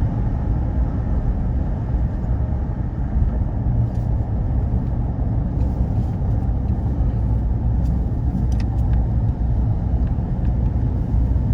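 Ford Ranger driving along the road: a steady low rumble of engine and tyre noise.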